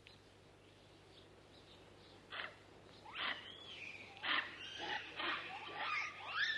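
Wild animal calls: after a quiet couple of seconds, a run of loud squealing and chirping calls that slide up and down in pitch, several in quick succession and overlapping.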